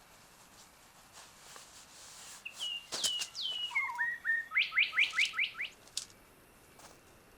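A songbird sings one phrase that starts a couple of seconds in: a few sliding whistled notes, then a quick run of short rising notes, about five a second.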